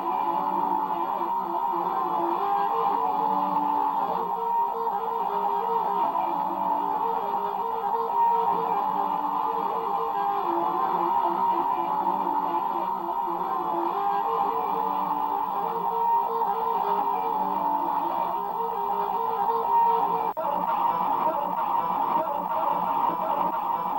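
Guitar music: a repeating electric guitar riff with strummed chords and bass.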